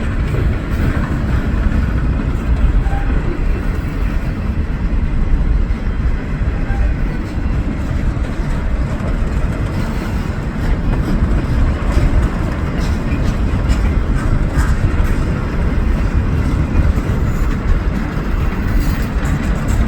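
Train rolling past a level crossing: a steady, unbroken rumble of wheels on the rails with faint clicks.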